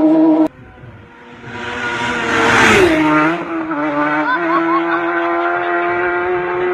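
Racing motorcycle approaching and passing at high speed, its engine note rising to a rush and then dropping sharply in pitch as it goes by, followed by a steady high engine note with brief blips. Before this, a different steady pitched sound cuts off abruptly about half a second in.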